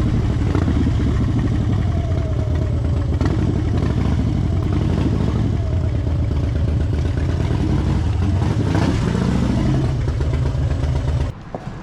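Harley-Davidson Fat Bob's V-twin engine running at low speed with a deep, pulsing exhaust, the revs rising and falling a little about eight to nine seconds in. The sound stops abruptly near the end.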